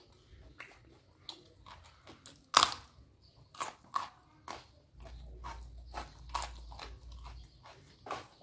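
A person biting and chewing crisp raw vegetables close to the microphone: one loud crunch about two and a half seconds in, then a run of smaller crunches.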